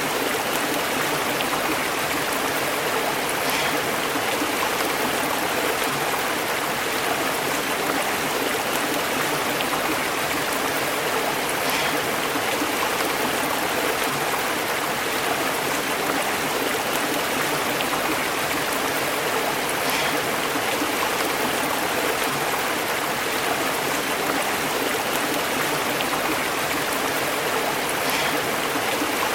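A stream flowing and burbling over rocks, a steady even rush of water without let-up.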